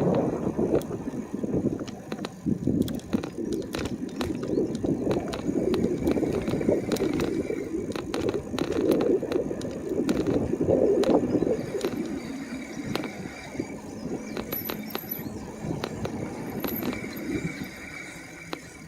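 E-bike rolling along a paved road: a rumble of tyre and wind noise with frequent small rattles and clicks from the bike, dying down over the last second or two.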